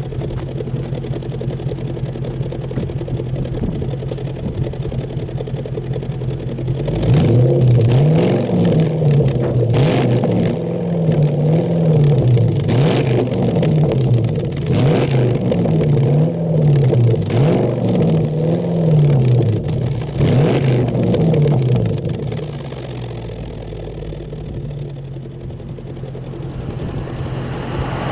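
Jaguar S-Type V8 engine through an aftermarket Zaustworks sport exhaust, idling, then blipped about six times in quick succession, each rev rising and falling back, with sharp snaps at several of the peaks, before settling back to idle for the last few seconds.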